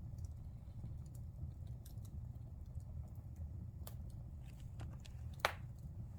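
Wood fire burning in a fireplace: scattered faint crackles over a low steady rumble, with one sharp, loud pop about five and a half seconds in.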